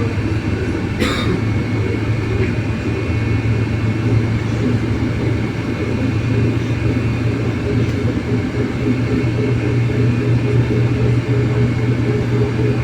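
Cabin noise inside a MAZ-303E10 electric bus under way: a steady low rumble with a constant hum from the electric drive running underneath. A single short click about a second in.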